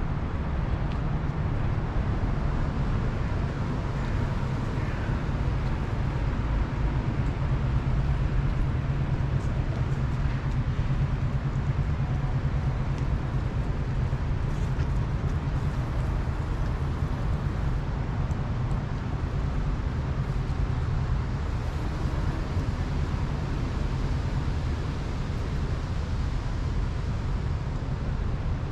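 Steady low rumble of city traffic, an even background wash with no single event standing out.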